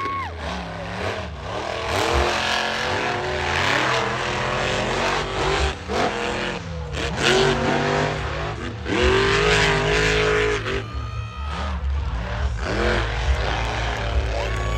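Monster truck engines revving hard again and again, their pitch climbing and dropping. A held horn-like tone sounds right at the start and again near the end.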